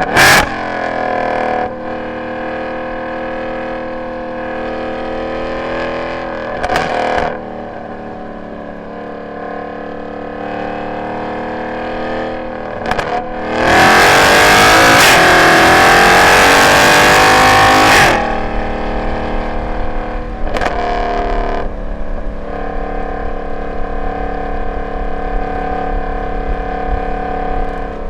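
Mercedes C63 AMG's M156 6.2-litre V8 through long tube headers, an x-pipe and no catalytic converters, driven on track: mostly part throttle, with short rev blips near the start and about seven and twenty seconds in. About halfway through it goes to full throttle for some four seconds, much louder, the pitch rising as it pulls, then backs off.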